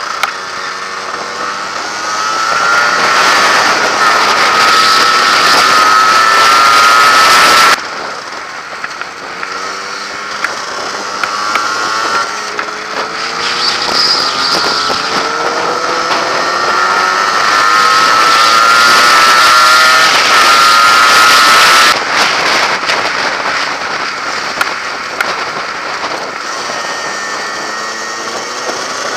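Yamaha RXS100's small two-stroke single-cylinder engine pulling hard while riding, its note climbing as it accelerates again and again, with wind rushing past. The sound drops suddenly twice.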